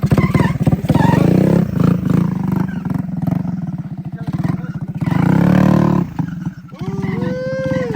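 Moped's swapped-in engine revving in several surges, the pitch climbing and dropping back each time, with a short sharp rev blip near the end.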